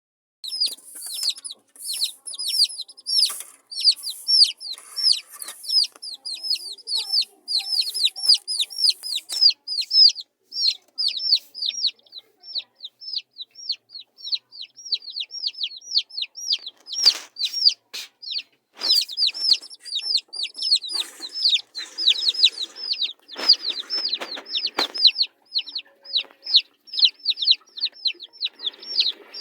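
A group of baby chicks peeping without pause: short high-pitched calls, each falling in pitch, several a second and overlapping. A few knocks and rustles come through in the second half.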